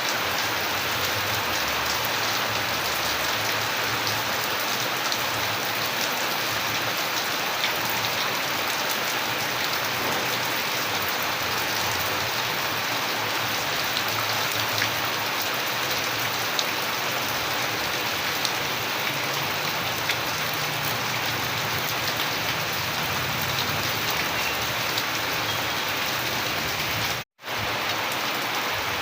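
Steady rain, an even dense hiss with scattered drop ticks. It cuts out to silence for a split second near the end, then comes straight back.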